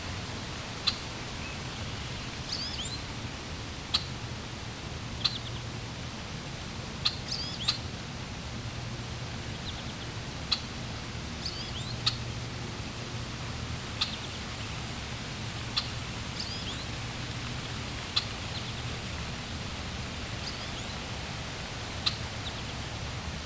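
Steady rush of flowing water, with a songbird chirping over it: short sharp chirps about every two seconds, some followed by a brief twittering phrase.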